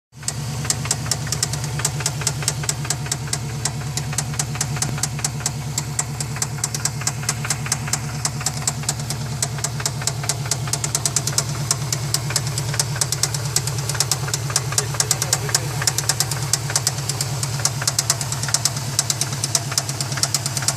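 Subaru flat-four engine running at idle with a rapid, regular knocking tick riding on its steady hum: an unidentified mechanical noise that the owners later try to trace, wondering about cylinder number 4 or something unbalanced in the turbo.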